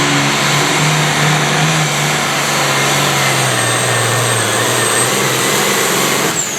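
High-powered pulling vehicle's engine running loud and steady at high revs, with a low drone that sags slightly after about four seconds.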